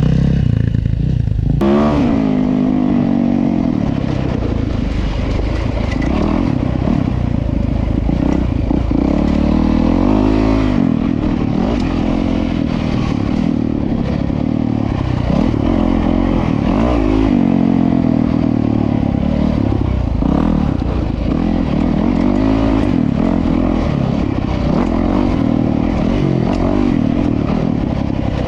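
Honda CRF450RWE dirt bike's single-cylinder four-stroke engine being ridden hard, revving up and dropping back over and over through throttle and gear changes.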